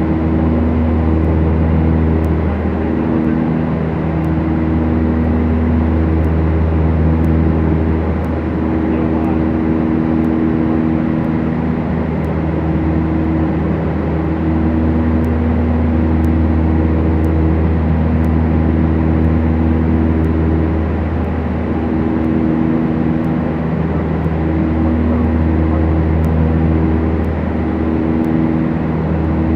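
Beechcraft Duchess's twin four-cylinder piston engines running steadily, a constant drone whose upper tones swell and fade every few seconds as the two engines beat slightly out of step.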